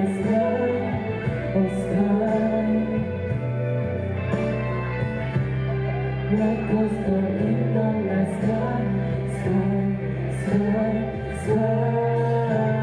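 Live pop-rock band playing the instrumental close of a ballad after the last sung line: held bass and chord notes with cymbal strokes about once a second.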